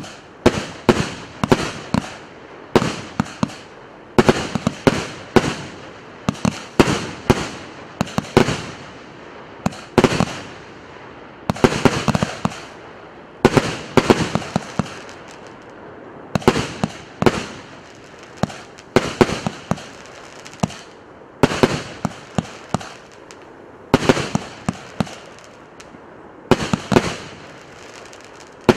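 A 150-shot, 1.2-inch consumer firework cake firing: sharp bangs of shells launching and bursting, several a second in quick volleys separated by short pauses.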